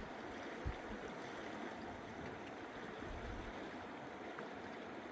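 River water rushing steadily, with a brief low thump about a second in.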